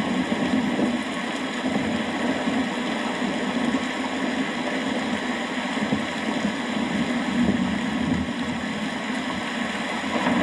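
Rain falling steadily, with a continuous low rumble underneath and no single sharp crack.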